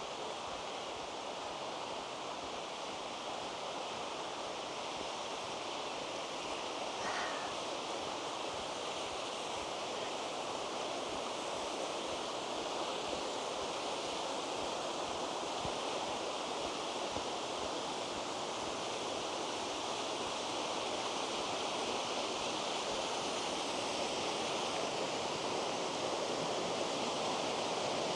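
Waterfall's rushing water, a steady roar that slowly grows louder.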